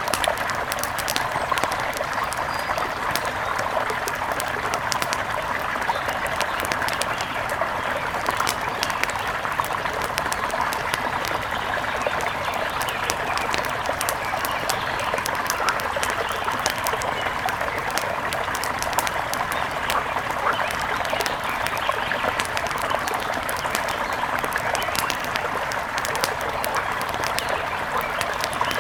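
Steady rush of river water with dense crackling from a wood fire, many sharp pops scattered throughout, in a layered nature ambience.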